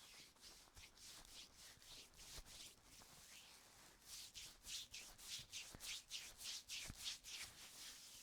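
Faint hands rubbing and stroking in a massage, soft swishing strokes that come quicker, about three a second, from about four seconds in.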